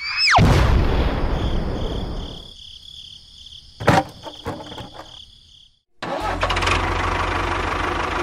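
A loud low rumble that fades away over about two seconds, then a faint pulsing high whine and a sharp click. After a brief cut to silence, a small engine runs steadily with a fast, even low throb.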